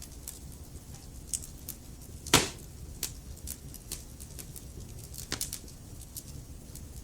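Wood fire burning in a fireplace: a low steady rumble with scattered small crackles, one loud pop about two and a half seconds in and another sharper snap a little past five seconds.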